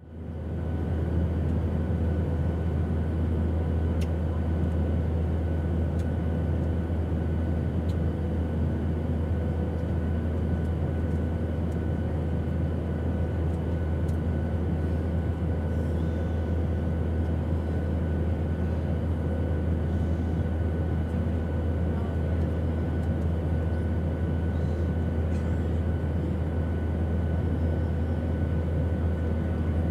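Airplane engine drone, steady and unbroken, with a strong low hum and a few thin steady whining tones above it.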